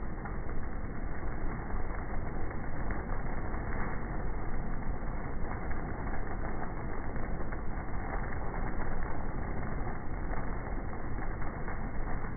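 Heavy thunderstorm rain and wind, a dense steady noise with scattered faint crackling ticks.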